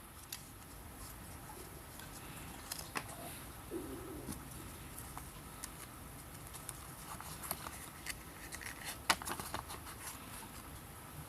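Scattered light clicks and taps, with one sharper click about nine seconds in.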